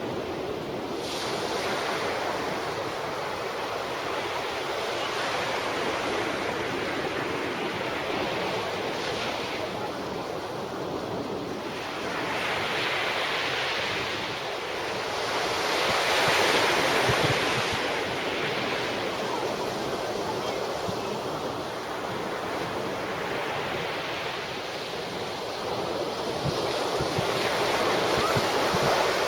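Sea surf breaking on a shingle-and-sand beach as a steady wash that rises and falls in slow swells, with some wind buffeting the microphone.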